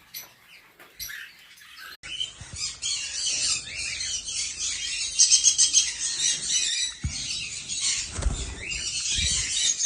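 Many caged birds chattering and squawking at once, calls overlapping densely. The chorus starts abruptly about two seconds in, with a few low thumps near the end.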